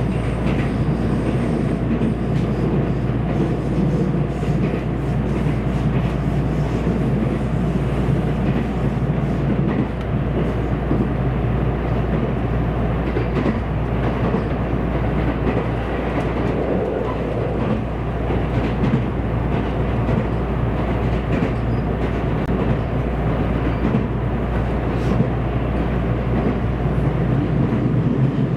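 Running noise heard inside the passenger cabin of a JR West 227 series electric train car: a steady low rumble of the wheels on the rails, with a few faint clicks here and there.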